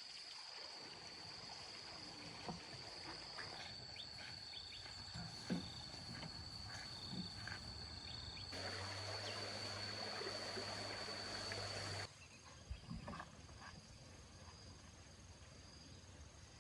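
Outdoor ambience with a steady, high-pitched insect drone and scattered light clicks and knocks. About halfway through, a louder hiss with a low hum comes in, then cuts off suddenly a few seconds later.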